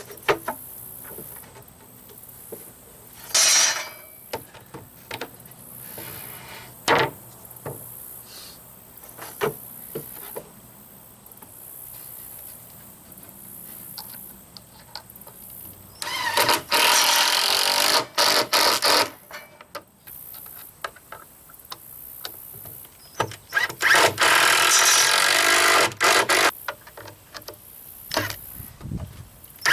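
Handheld power tool running in two runs of about three seconds each in the second half, with scattered knocks and clicks of wood being handled before them.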